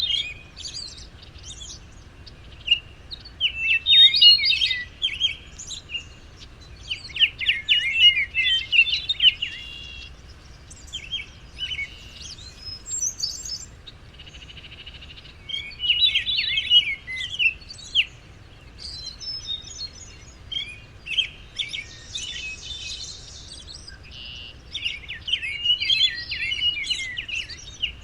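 Small songbirds chirping and twittering in quick, high-pitched bursts that come and go every few seconds, with short gaps between, over a faint steady low background rumble.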